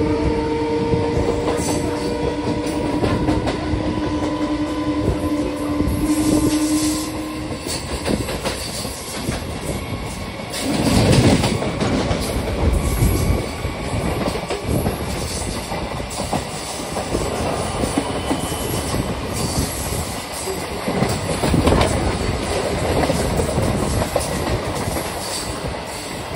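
Two EMU electric local trains running side by side on parallel tracks, heard close up from an open doorway: a steady rolling rumble with the wheels clicking over rail joints. A held steady tone sounds over it for about the first seven seconds and then stops, and the rumble swells louder about eleven seconds in.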